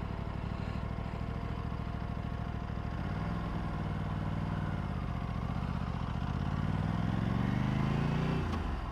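Aprilia RS 457 parallel-twin engine running steadily, then pulling away on a hill start: the engine note rises about three seconds in, eases, and climbs again before dropping off sharply near the end.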